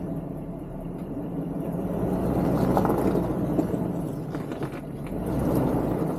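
Off-road 4x4 engine running at low revs while crawling over a rocky trail obstacle, with a few short clicks over the steady hum.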